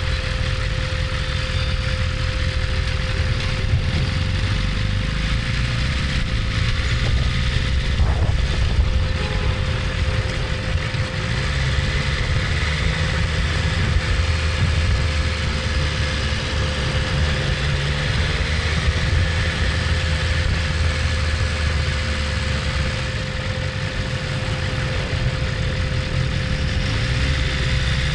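BMW S1000RR's inline-four engine running steadily, with a steady hum over it.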